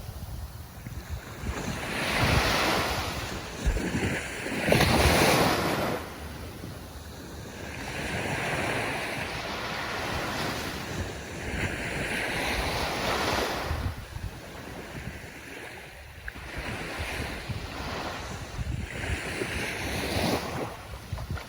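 Ocean waves breaking and washing up on shore, swelling and ebbing in several surges, the loudest about five seconds in.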